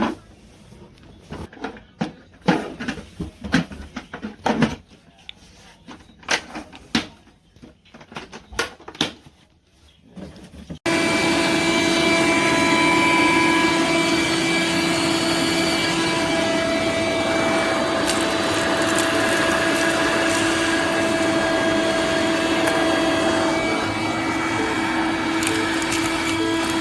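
Scattered clicks and knocks of handling, then about eleven seconds in a DeWalt 20V MAX cordless shop vac (DCV580H) switches on suddenly and runs steadily, a loud rushing noise with a whining motor tone.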